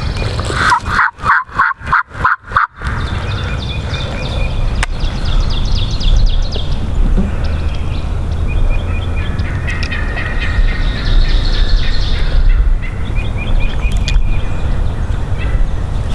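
Wild turkey yelping: a run of about six evenly spaced notes in the first three seconds. Rapid, rattling gobbling follows later, the longest stretch at about ten to twelve seconds in.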